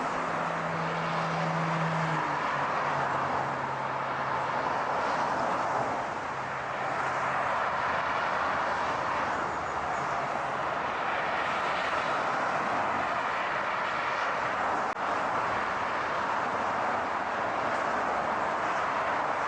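Car on the move: a steady rush of road and engine noise, with a low engine hum that drops in pitch about two seconds in and fades out about halfway through.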